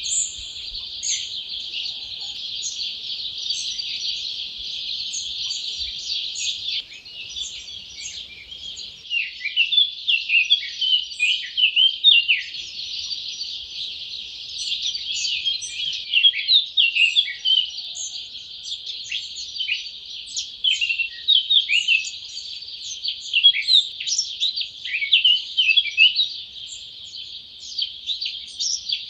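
Dawn chorus of many wild songbirds singing and chirping at once, their calls overlapping in a dense, continuous wash. The chirps grow louder and busier about a third of the way in.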